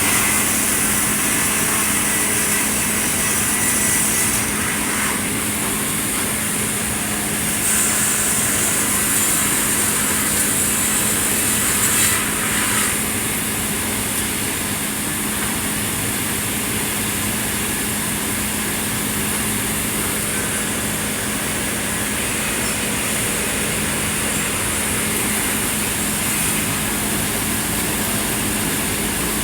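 Sawmill machinery running while sawing red pine: a steady mechanical hum under a loud, high hiss. The hiss swells louder twice in the first dozen seconds.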